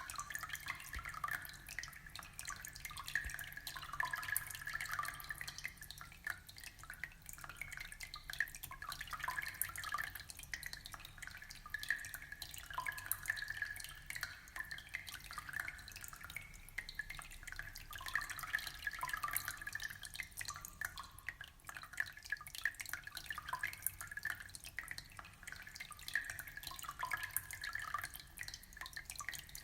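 Aquarium water trickling and bubbling: a steady, dense patter of small drips and bubble pops.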